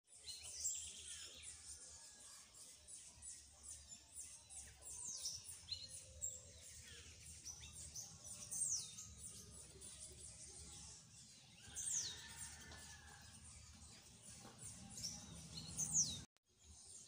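Birds chirping: many quick, high calls that sweep downward in pitch, over a faint low hum.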